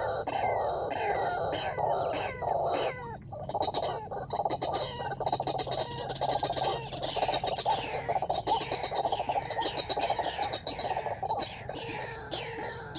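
White-breasted waterhen calls: a long run of short, harsh notes, each falling in pitch, a few a second, over a dense steady chorus. A cluster of clicks comes a few seconds in.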